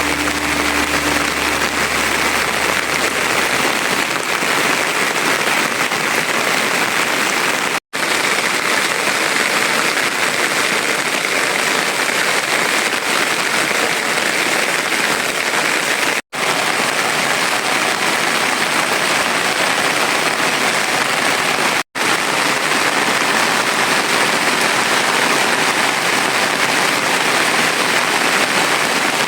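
Steady heavy rain falling. It cuts out to silence for an instant three times.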